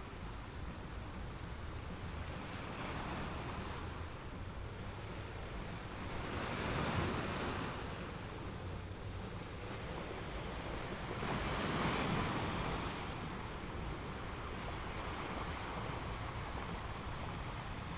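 Ocean surf: waves washing in as a steady rushing hiss that swells twice, about seven and twelve seconds in.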